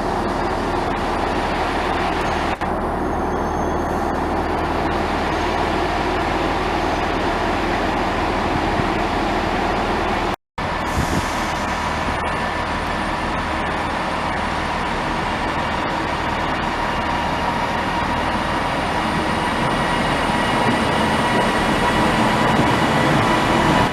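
Train running: a steady mechanical drone with faint steady whines over it, breaking off for a moment about ten seconds in and getting slightly louder near the end.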